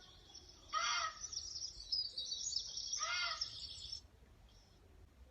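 A deer calling twice: two short calls that rise and fall in pitch, about two seconds apart. Birds chirp throughout the calls.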